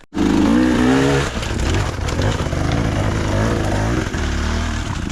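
Off-road motorcycle engine revving hard under load on a steep climb. It comes in suddenly and loud, rises in pitch over the first second, then surges up and down with the throttle.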